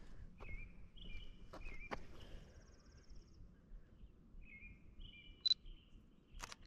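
Faint outdoor street ambience with a songbird singing two short bursts of chirps, about half a second in and again near five seconds, and a brief fast high trill in between. Several sharp clicks are scattered through it, the loudest a short bright high click a little past five seconds.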